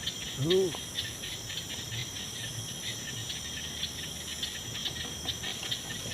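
Night insects, crickets among them, chirping in a steady pulsing chorus over a continuous high-pitched drone. A brief low voice-like sound comes about half a second in.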